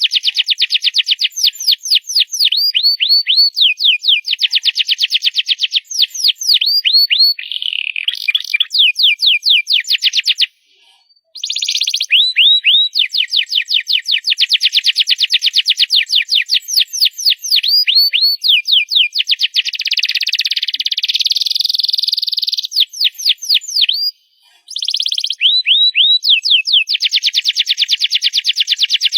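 Canary singing loudly in long, rapid trills of repeated high chirping notes, changing from one trill to the next, with two brief pauses in the song.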